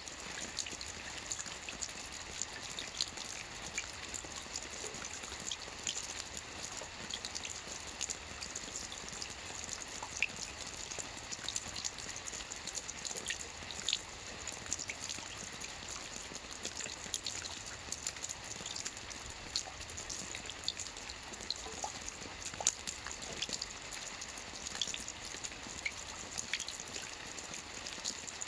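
Soft rain falling steadily on a roof, a continuous patter with many small distinct drop ticks.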